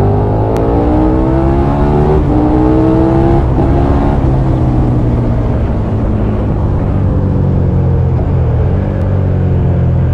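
KTM 1290 Super Duke R's V-twin engine under way, its pitch rising as it accelerates for about three and a half seconds, then dropping about four seconds in and running steadier.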